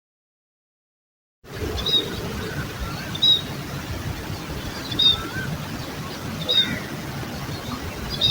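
A bird giving a short, high chirp about every second and a half, five times, over a steady outdoor background hiss. The sound starts after about a second and a half of silence.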